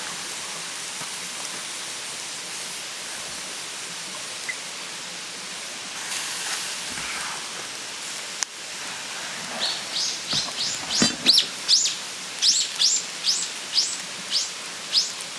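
A steady hiss, then from about two-thirds of the way through a fast run of short, sharp high chirps, about three a second, like a bird calling repeatedly.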